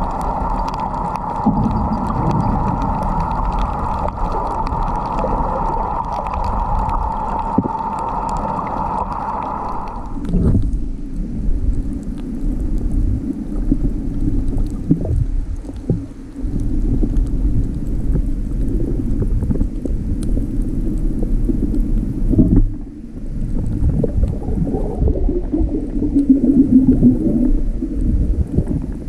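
A motor running steadily, with a high whine that cuts off suddenly about ten seconds in, leaving a lower steady hum over a rumbling, watery noise.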